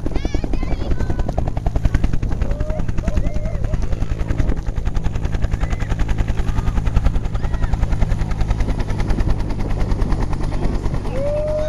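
Sheriff's search-and-rescue helicopter running close by, its rotor giving a loud, fast, steady chop.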